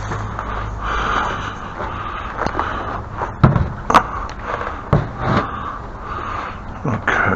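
Things being handled and shifted around: a handful of sharp knocks and bumps with scraping and dragging between them.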